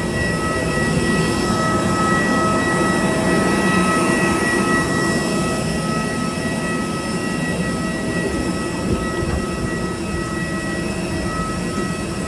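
Steady rumbling ride noise heard from inside a moving vehicle, with two constant high-pitched whines over it.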